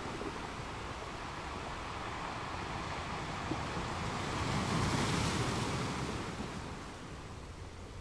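Sea water washing, with wind on the microphone. The wash swells to its loudest a little past halfway and then eases off.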